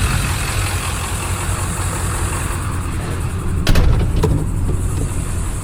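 A vehicle engine running steadily as it drives off, with a couple of short rattles or knocks about two thirds of the way through.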